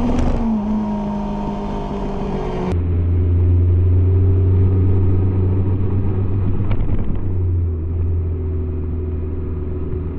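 Yamaha R6's inline-four engine heard onboard while riding at speed, holding a steady high note that sags slightly. About three seconds in, the sound changes abruptly to a duller, lower drone.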